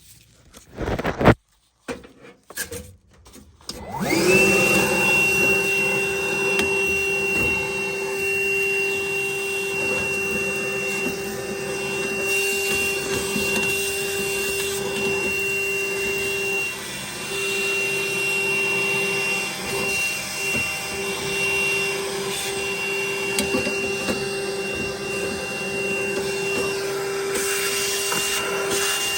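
A few knocks, then a vacuum cleaner switched on about four seconds in, spinning up quickly and running steadily with a constant whine, used to clean debris out of the furnace vent.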